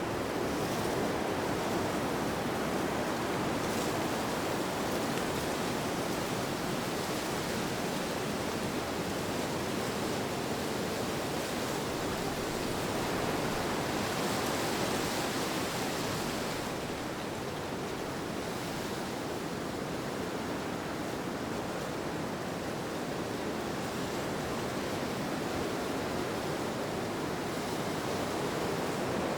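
Steady rushing wind ambience, an even noise that swells slightly and eases about halfway through.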